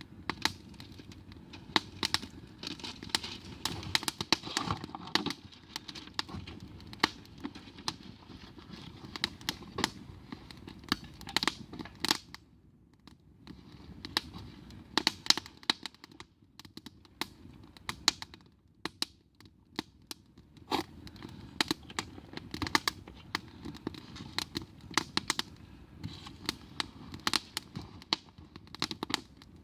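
Campfire crackling: irregular sharp pops and snaps over a low steady rush. The pops thin out briefly twice, about 13 and 19 seconds in.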